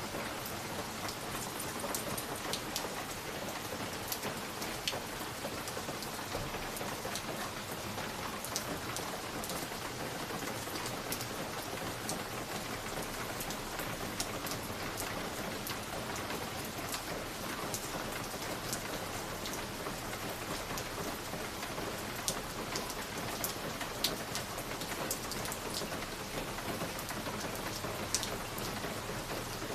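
Wood fire crackling in a fireplace: a steady hiss with sharp pops and snaps at irregular moments throughout.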